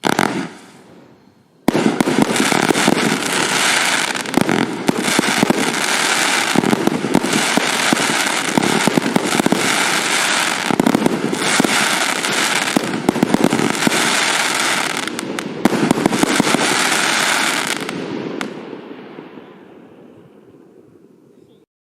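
A 49-shot firework cake firing: a brief burst at the start, then from about two seconds in a dense, unbroken run of bangs and crackle that dies away over the last few seconds.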